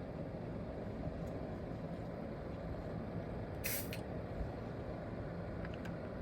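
Steady low rumble of vehicle engines at a roadside-station parking area, with one short sharp hiss about three and a half seconds in.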